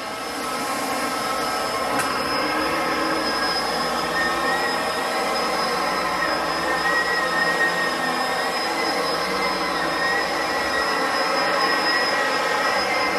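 Bissell upright vacuum cleaner running steadily while picking up debris from the floor: a constant motor whine with a high, steady tone, rising to full level in the first second.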